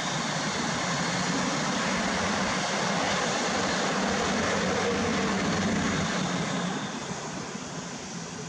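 Railway train running through the station: a steady rumble with a low hum that eases off a little near the end.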